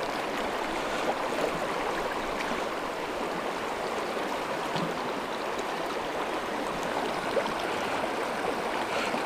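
Fast-flowing mountain stream rushing steadily over rocks.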